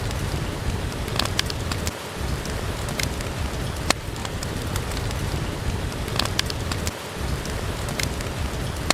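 Steady rain falling with a low rumble, over a wood fire in a fireplace giving scattered sharp crackles and pops.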